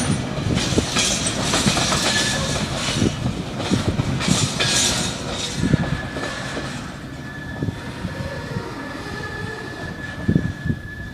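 Train running on rails, with rumble and scattered clicks and knocks of the wheels over the track, slowly getting quieter. From about halfway through, a steady thin high squeal is heard.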